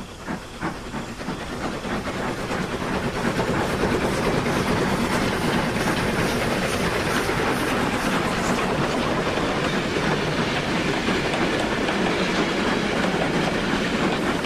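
A train running on rails: wheels clattering over the rail joints, with steam hiss. It swells over the first few seconds and then holds steady.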